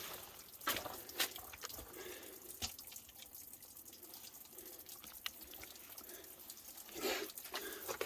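Water dripping at a wet mine adit: a handful of separate sharp drops over a faint steady wash of water.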